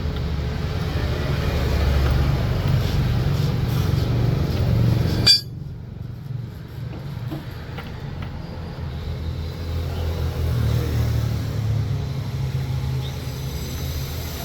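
A vehicle engine running steadily with a low rumble, broken by one sharp click about five seconds in, after which the sound abruptly turns duller and quieter before the rumble builds again.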